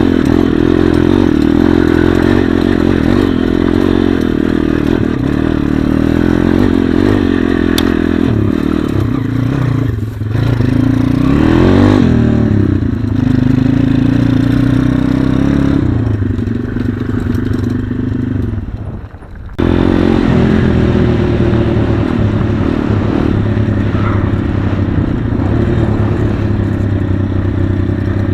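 Small single-cylinder four-stroke pit bike engine running under way, its pitch rising and falling with the throttle. Its sound dips sharply for a moment about two-thirds of the way through, then picks up again.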